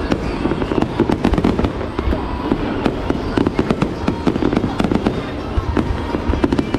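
Fireworks display going off: many sharp bangs and crackles in quick succession over a steady low rumble.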